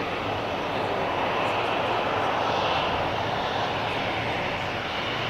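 Boeing 737-800's CFM56 jet engines running, a steady rushing noise that swells slightly midway.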